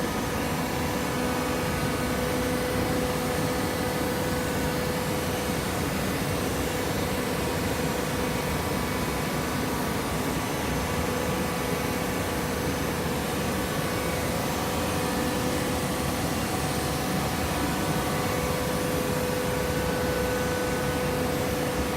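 Coconut fiber baler machine running steadily, a constant mechanical hum with a steady mid-pitched tone over a noisy whir.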